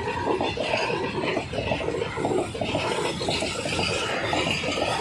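Freight wagons rolling past at close range: a steady, dense clatter and rumble of steel wheels on the rails.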